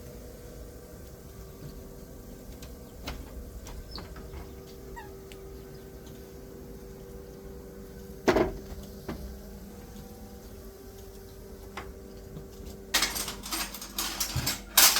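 A faint steady hum with a single sharp knock about eight seconds in, then a quick run of clinking and clattering from dishes and utensils over the last two seconds.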